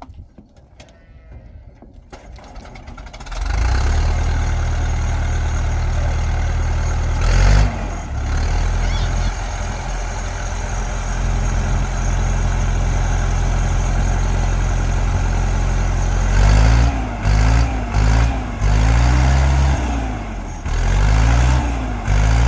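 A vehicle engine comes on suddenly about three seconds in and runs steadily. From about two-thirds of the way through, it is revved up and down several times in quick succession.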